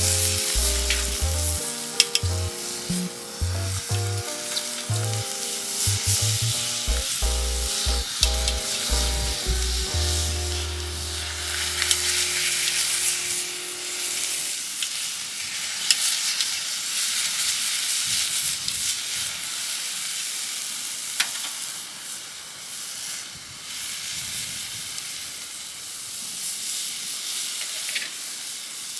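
Food sizzling as it fries in a pan, with occasional sharp clicks of stirring. Background music with a bass line plays over the first half and stops about halfway through.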